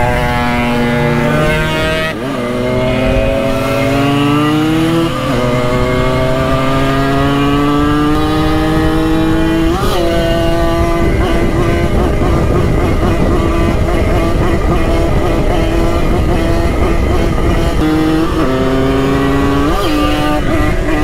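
Simson moped's two-stroke single-cylinder engine accelerating hard, its pitch climbing and dropping at gear shifts about two, five and ten seconds in, then running at speed with a couple of quick shifts near the end. Wind rumbles on the microphone throughout.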